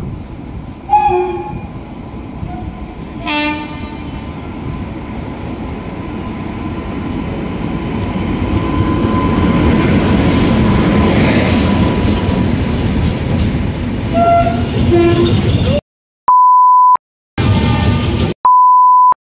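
An Indian Railways electric locomotive arriving with an express train: two short horn blasts in the first few seconds, then the rumble of the locomotive and coaches rolling past close by, growing louder. Near the end the train sound cuts out abruptly and two short steady beeps are heard.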